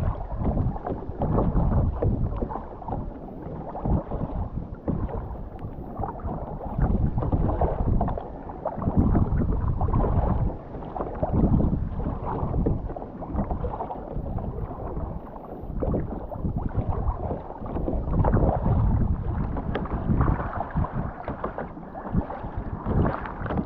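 Kayak being paddled on the sea: paddle blades dipping and water splashing, swelling and falling every second or two.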